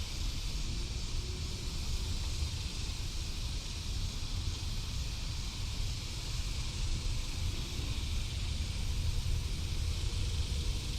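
Wind buffeting the microphone as a steady, uneven low rumble, over a constant outdoor hiss.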